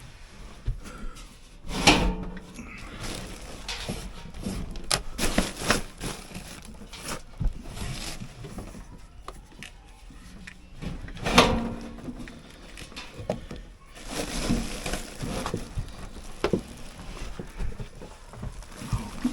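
Irregular knocks, clunks and scraping from work on an air handler's blower assembly as it is unscrewed and worked loose, with the loudest knocks about two seconds in and again past the middle.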